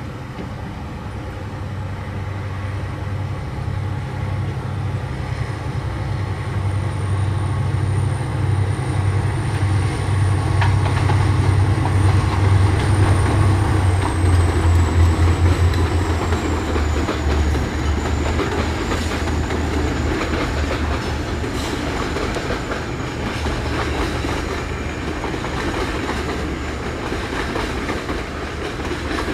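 GT22 diesel-electric locomotives pulling away with a heavy loaded freight train, their diesel engines running hard under load with a deep throb. The engines get louder up to about halfway, when a faint high whine drops in pitch. Wheels click over the rail joints.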